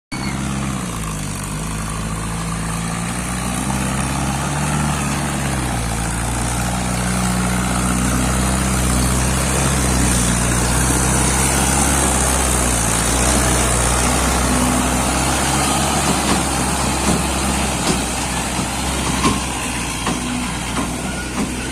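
Mahindra Arjun Ultra 555 tractor's diesel engine running, its pitch dropping in the first seconds, rising again and then holding steady as the throttle changes. A few short knocks and rattles come near the end.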